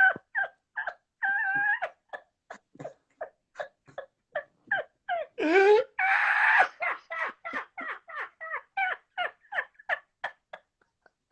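Hysterical laughter: a rapid run of short, high-pitched, wheezing gasps, with a longer, louder squeal about six seconds in.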